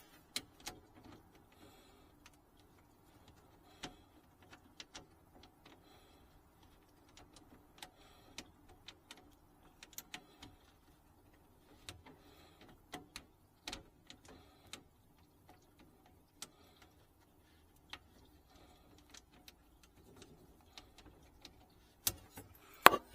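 Scattered light clicks and knocks of hand work on sink plumbing fittings, with a few louder knocks near the end.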